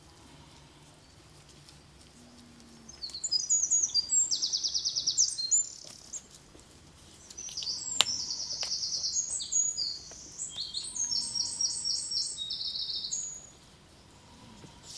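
A songbird singing two long phrases of quick, high trills, the first starting about three seconds in and the second after a short pause. A single sharp click falls near the middle.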